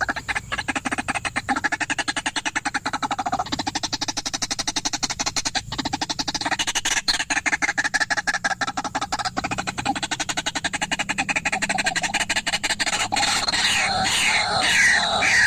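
White-breasted waterhen calling: a fast, even string of harsh clucking notes, changing near the end into repeated falling notes about twice a second.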